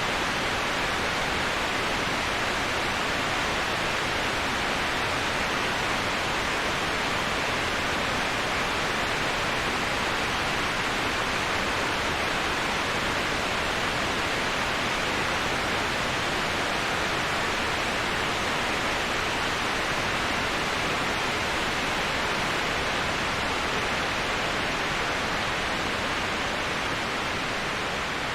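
Steady rushing of falling water from a waterfall, an even hiss with no breaks or changes in pitch, dipping slightly in level near the end.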